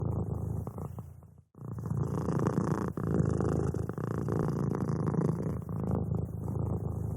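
Domestic cat purring steadily in long breaths. The purr fades out briefly about one and a half seconds in, then resumes and starts to fade again near the end.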